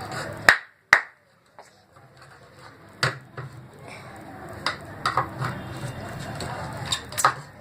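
Small clicks and knocks of a screwdriver and the plastic casing of an LED torch being handled while its back is unscrewed, scattered irregularly over a low steady hum.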